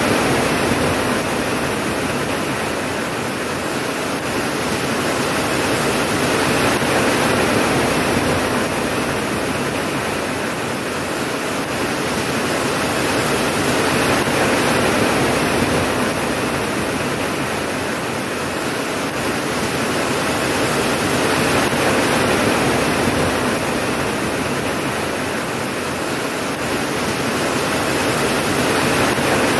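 Steady heavy rain, a dense even hiss that swells and eases slowly every few seconds, with no thunderclap.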